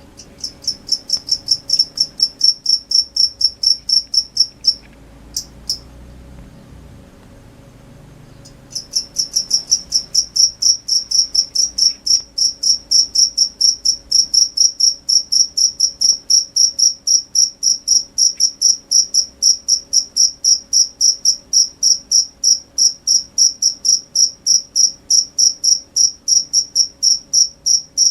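A cricket chirping: a steady run of short, high-pitched chirps, several a second. It falls silent for a few seconds about five seconds in, then starts again and keeps a regular pace.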